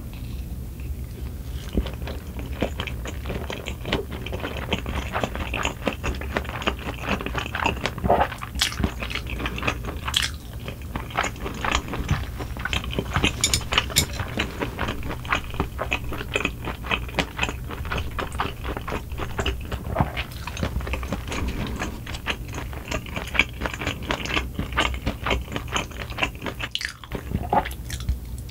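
Close-miked chewing of a mouthful of rice with bits of pork cartilage, a dense run of crunches and wet mouth clicks.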